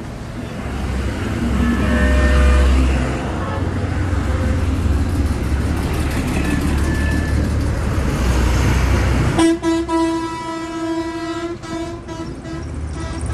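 Hino 1J bus engine running with a heavy low rumble, with a few short horn toots about two seconds in. Near the end a vehicle horn starts a long steady blast that is still going at the end.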